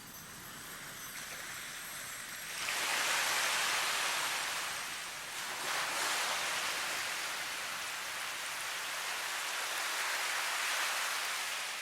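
Rushing water, a hissing wash that swells suddenly about two and a half seconds in, eases, swells again near six seconds and then slowly fades.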